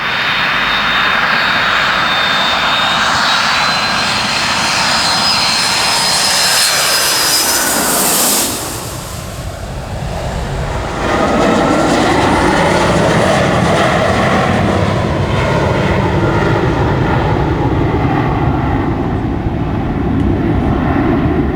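Boeing 757 airliner flying past low on jet power: a loud high whine rising in pitch for about eight seconds, a brief dip as it passes, then a loud low rumble as it goes away.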